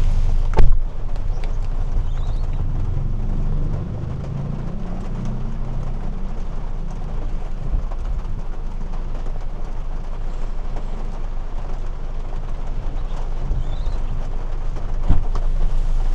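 A car engine idling, with a steady wash of rain noise, and a sharp thud about half a second in and another near the end.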